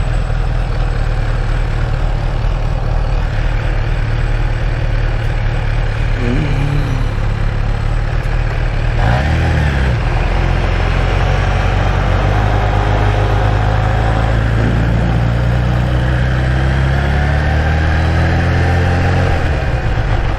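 Supercharged inline-four engine of a Kawasaki Ninja H2 motorcycle running at low road speed, its note dipping and rising with the throttle and climbing gradually in the second half, over a steady rush of air noise.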